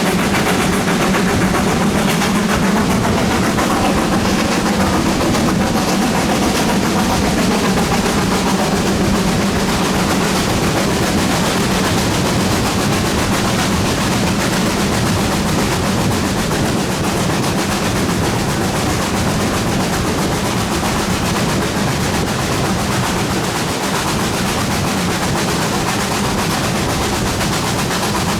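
Steam locomotive 7820 Dinmore Manor, a GWR Manor class 4-6-0, working loudly under steam with its exhaust beating in rapid, continuous succession.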